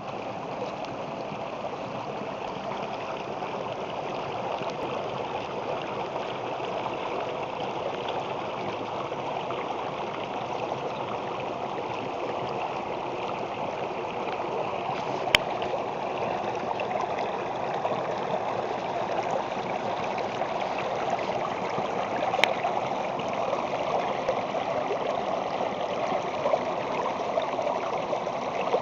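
Water of a stream flowing steadily, with two brief clicks about halfway through and near the end.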